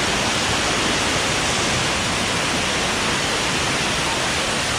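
Waterfall rushing close by: a loud, steady roar of falling water with no break.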